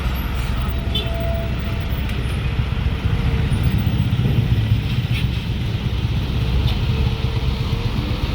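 Road traffic dominated by the low, steady drone of heavy diesel trucks, growing a little louder about three seconds in.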